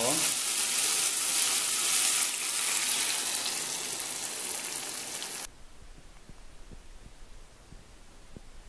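Collard greens frying in a pan with a steady sizzle, with beaten egg poured in over them. The sizzling cuts off suddenly about five and a half seconds in.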